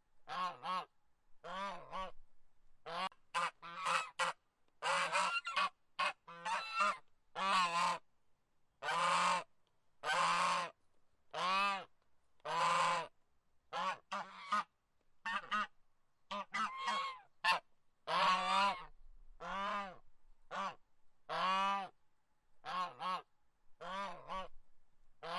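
Geese honking over and over: a long run of loud, harsh honks about one or two a second, some in quick doubles.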